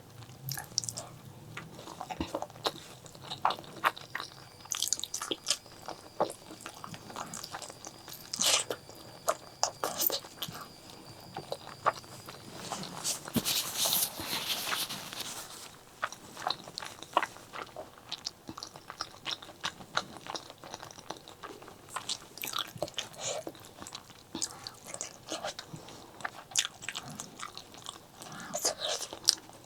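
Close-miked eating sounds of spicy pork leg curry with eggplant and rice: chewing and biting, with many short wet clicks and smacks. A longer, denser noisy stretch comes about halfway through.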